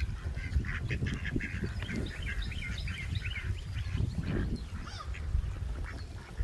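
Birds calling: many short, high chirps in quick succession, over a steady low rumble.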